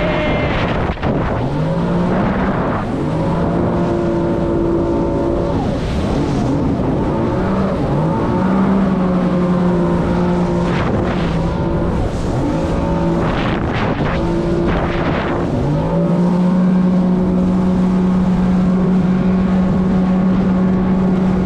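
Jet ski engine running under throttle, its pitch dropping and climbing back several times as the rider eases off and opens up again, then holding a steady higher note for the last few seconds.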